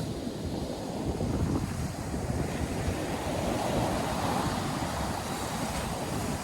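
North Sea surf breaking and washing in, with a wave swelling louder about three seconds in and easing off. Wind buffets the microphone with a gusty low rumble underneath.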